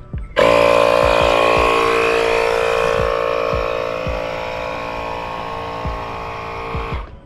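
Electric air pump running hard, pumping air to a set pressure of 55 pounds: a loud, steady motor whine that starts suddenly about half a second in and cuts off near the end.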